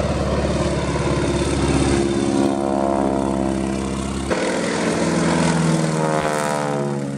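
Boeing Stearman biplane's radial engine and propeller running in flight. There is an abrupt change a little after four seconds in, and the pitch falls near the end as the plane passes by.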